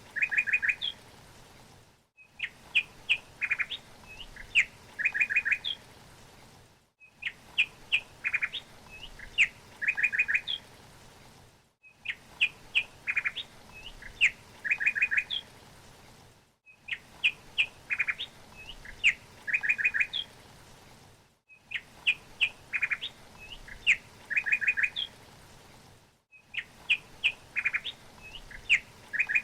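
Bird chirping: a few separate quick notes followed by a rapid run of chirps, over a faint hiss. The same short recording repeats as a loop about every five seconds, with a brief cut to silence between repeats.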